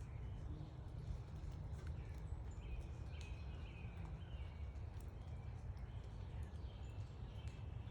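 Small backyard birds chirping in short, repeated calls, several overlapping, over a steady low rumble.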